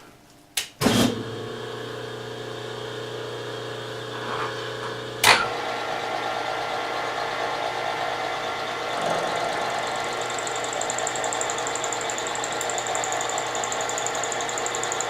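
Milling machine switched on with a click about a second in, its spindle motor then running with a steady hum. A sharp click comes around five seconds in, and a thin high whine joins the running sound from about nine seconds.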